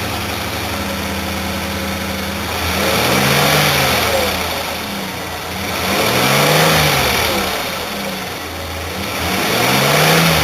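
2007 Chevrolet Impala engine idling just after start-up, then revved three times; each rev rises and falls smoothly over about two seconds.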